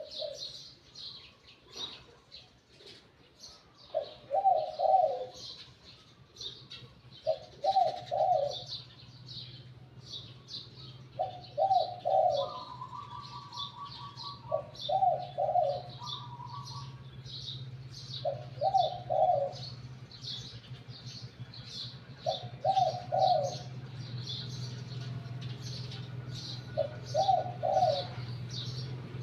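Spotted dove cooing, a short rolling coo phrase about every three and a half to four seconds, over steady high chirping of small birds. A brief trill comes in twice near the middle, and a low steady hum sets in early on and stays.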